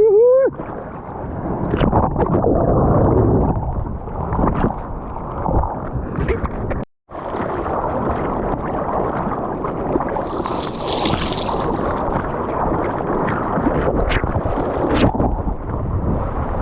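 Sea water rushing and splashing around a waterproof action camera in the surf, with wind buffeting the microphone. The sound drops out for an instant about seven seconds in, then the rushing carries on.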